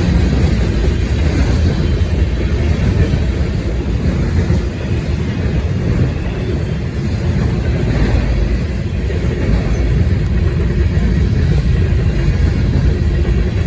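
Steady low rumble of a freight train rolling past, mixed with wind buffeting the microphone.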